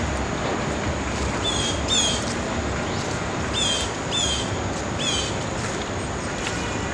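A bird calls five times, each a short note sweeping down in pitch, over a steady outdoor background hiss and low rumble.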